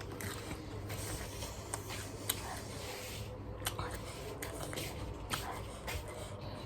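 Chewing raw cabbage close to the microphone: wet mouth sounds with a few sharp, irregular crunches.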